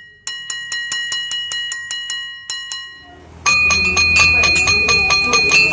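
A spoon tapping a bakso vendor's ceramic bowl in quick, even strokes, about five a second, each stroke ringing. It stops about halfway through, then starts again louder, with a higher ringing pitch and a low background rumble.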